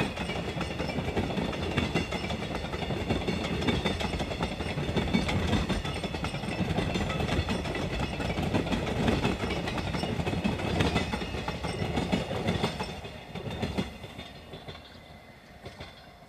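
Freight train rolling past, its wagon wheels clattering over the rail joints; the sound falls away about thirteen seconds in and fades as the end of the train passes.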